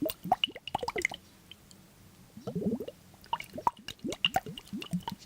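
Wet, sticky squishing with quick clicks, coming in irregular bursts, with short squelching squeaks about halfway through.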